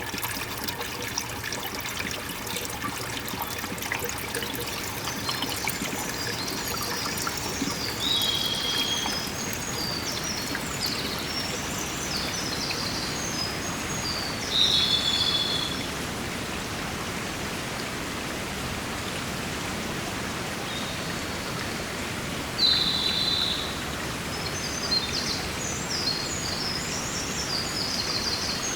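Steady running water of a forest stream, with small birds calling over it from a few seconds in: clusters of quick high chirps, and three louder short calls spread through.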